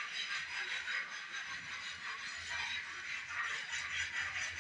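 Many parrots chattering at once, a continuous mass of overlapping calls.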